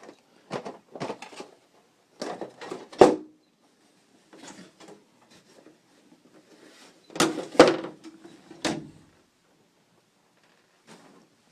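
Irregular knocks and clunks from parts of a disassembled flat-screen TV being handled, with a few louder clunks about three seconds in and again around seven to nine seconds.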